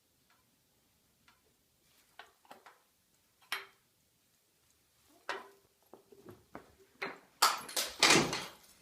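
Irregular knocks and clatters, a few with a short ringing ping. They are sparse and faint at first, then come louder and closer together near the end.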